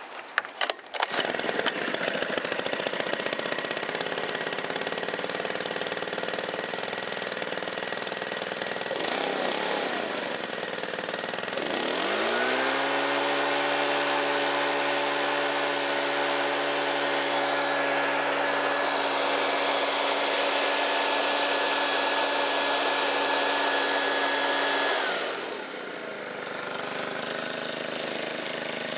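Shindaiwa EB254 handheld blower's Hybrid4 four-stroke engine starting after a few sharp clicks, then running at a low, steady speed. About twelve seconds in it is throttled up and holds a steady high speed, now running on a new fuel filter and a cleaned air filter. Near the end it drops back to idle.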